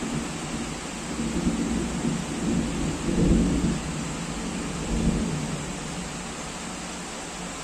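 Thunder rumbling over steady heavy rain. The rumble swells loudest about three seconds in, surges again near five seconds, then dies away, leaving the hiss of the rain.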